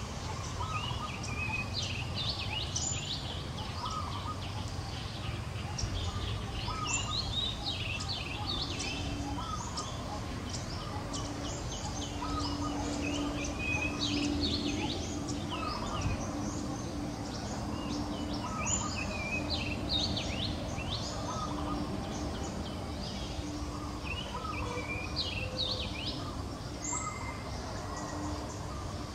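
Outdoor ambience of small birds chirping, with many short, quick chirps in clusters all through, over a steady low background rumble; a faint steady hum joins about a third of the way in.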